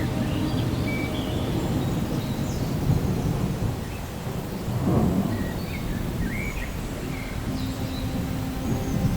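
Low rolling thunder over steady rain, the rumble swelling louder about five seconds in.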